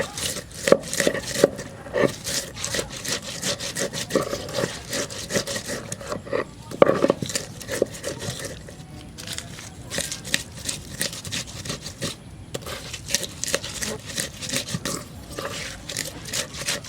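A spatula scraping and stirring in a metal pan, quick irregular strokes two to three a second with a faint ring from the pan, as bamboo shoot and spice paste are fried.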